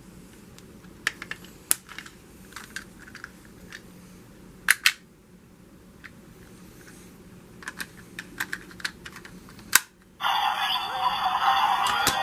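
Scattered sharp plastic clicks and snaps of a toy transformation device being handled, including a quick double click midway and a run of clicks near the end. About ten seconds in, the toy's loud electronic transformation music and effects begin.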